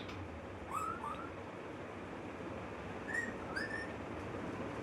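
Pet parrot whistling: two pairs of short, quick upward-sliding whistles, about a second in and again near three seconds in, rather than speaking words.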